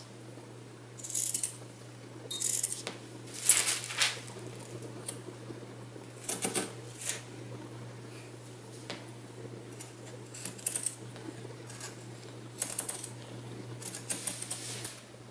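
Scissors cutting in a series of short crisp snips, one every second or two, over a low steady hum.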